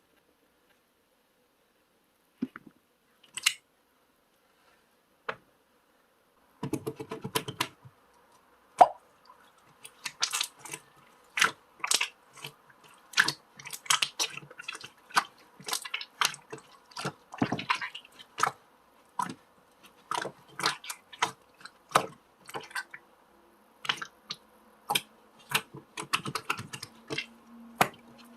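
Close-up sharp clicks and crisp taps, irregular and several a second, starting about seven seconds in after a few isolated ticks.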